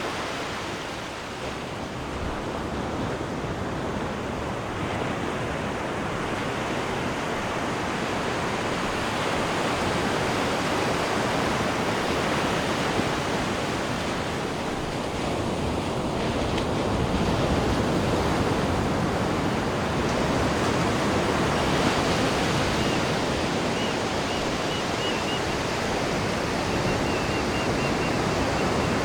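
Cruise ship's wake churning astern, a steady rush of water that slowly swells and eases.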